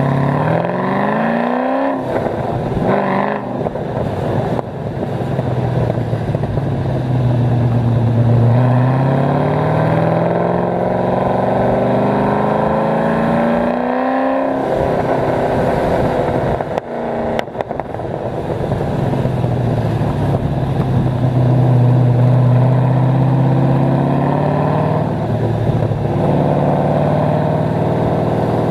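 The cammed 5.7-litre LS1 V8 of an HSV VY Clubsport R8, heard through long-tube headers and an X-pipe, pulling through the gears. The revs climb in long pulls and drop sharply at each gear change, about 2 s in and again about 14 s in. There is a short break near 17 s, with steadier cruising stretches between the pulls.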